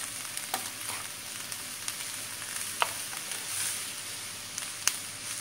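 Diced onion and green peppers sizzling in oil in a frying pan as a wooden spoon stirs them, a steady hiss with two sharp clicks, about three seconds in and again two seconds later.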